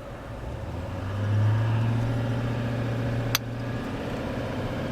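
Truck engine running steadily on the road, a low drone that swells about a second in and eases slightly near the end, with a single sharp click a little past the middle.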